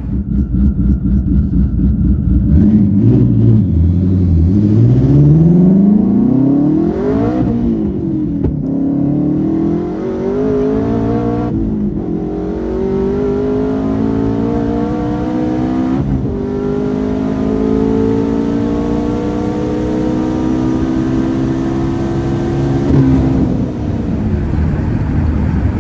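Twin-turbo Mustang Shelby GT350's 5.2-litre flat-plane V8 pulling at full throttle on a half-mile pass, revs climbing through four gears with quick shifts about 7, 12 and 16 seconds in, then a long, slow pull in fourth before the revs drop near the end.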